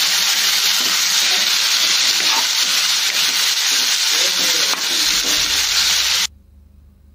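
Chopped tomatoes sizzling steadily in hot oil in a non-stick frying pan as a spatula stirs them. The sizzle cuts off suddenly about six seconds in.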